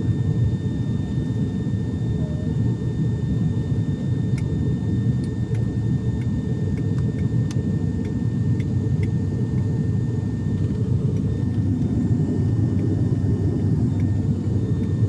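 Airliner cabin noise in flight: a steady, heavy low rumble of the engines and airflow, with a thin steady whine above it and a few faint clicks.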